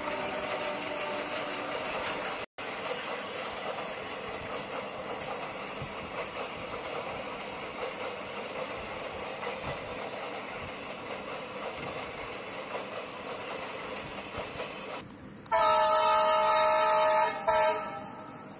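Passenger coaches running past close by: a steady rattling rush of wheels on rail joints, broken by a brief dropout a few seconds in. Near the end an electric locomotive sounds its horn loudly, one blast of about two seconds and then a short second toot.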